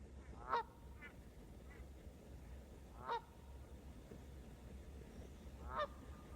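Geese honking: three loud, short honks about two and a half seconds apart, with a couple of fainter honks in between.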